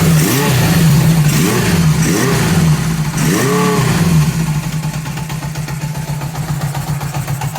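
1978 Honda CB750K's air-cooled inline-four engine, barely running: blipped about five times in the first four seconds, the pitch rising and falling each time, then settling to a quieter, steady idle. The owner says it is barely running and suspects a vacuum leak at the carburetors.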